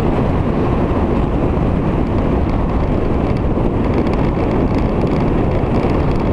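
Steady wind rush over the microphone on a Victory motorcycle riding at speed, with engine and road noise underneath.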